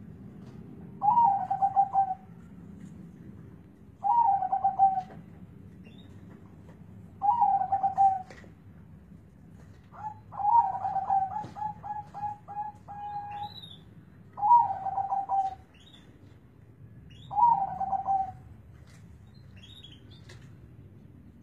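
Zebra dove (perkutut) cooing with a deep, full voice: a short rolling phrase repeated about every three seconds, with one longer phrase of several notes about ten seconds in.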